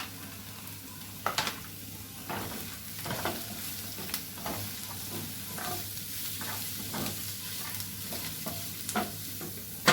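Beef, onion and coriander sizzling in a pan while being stirred, with irregular scrapes and knocks of the utensil against the pan. A sharp knock near the end is the loudest sound.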